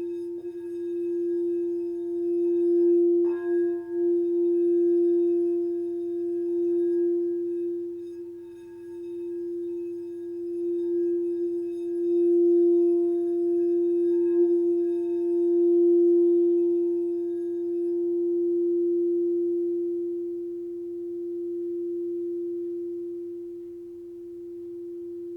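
Heart-chakra singing bowl sounding one steady, sustained low tone that slowly swells and ebbs in loudness. There is a light knock on the bowl about three seconds in. Its higher overtones die away in the last third while the main tone rings on.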